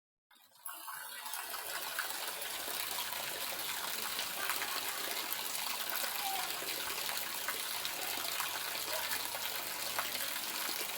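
Light rain falling steadily: an even hiss with scattered ticks of individual drops, fading in over the first second.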